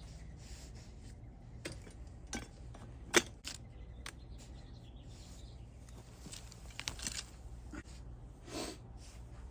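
Scattered small clicks, snaps and rustles of objects being handled, with one sharp click about three seconds in, over a faint steady low hum.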